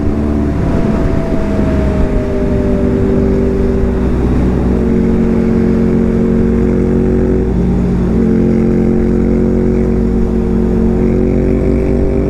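Motorcycle engine running under way with low wind rumble. The pitch sags in the first few seconds, and after a short break about eight seconds in it comes back higher and slowly climbs, as with a gear change.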